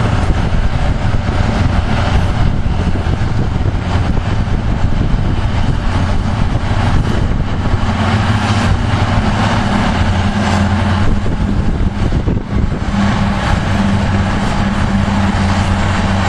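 Diesel engines of Caterpillar 627 and 637G wheel tractor-scrapers running hard while the scrapers load, a steady low engine sound that grows stronger about eight seconds in.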